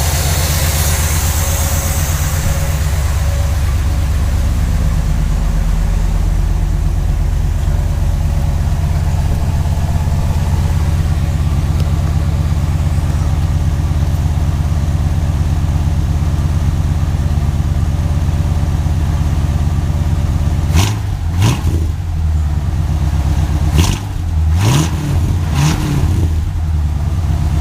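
Chevrolet 327 small-block V8 idling steadily through a dual exhaust, its valvetrain running much quieter with the valve lash freshly adjusted. About twenty seconds in, the throttle is blipped several times, the engine revving briefly and settling back to idle.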